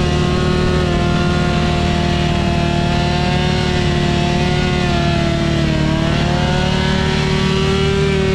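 Stunt motorcycle's engine held at steady revs through a long wheelie, the pitch dipping briefly about six seconds in and coming back up.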